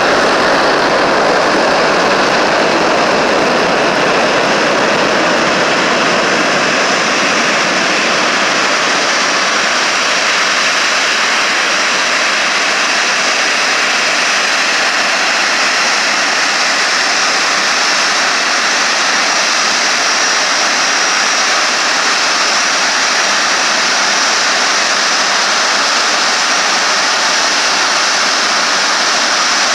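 Airbus A380's four jet engines and jet blast heard close by: a loud, steady roar of rushing air. The deepest rumble fades after the first several seconds.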